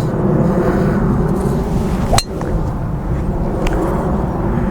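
Wind buffeting the microphone with a steady low rumble, and about two seconds in a single sharp crack of a golf club striking a ball.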